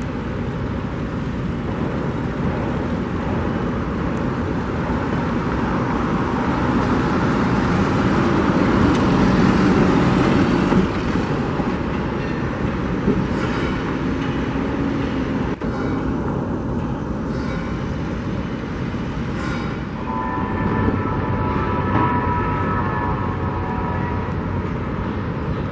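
A train passing, a dense rumble that swells to its loudest about ten seconds in and then eases, with higher steady tones sounding from about twenty seconds in.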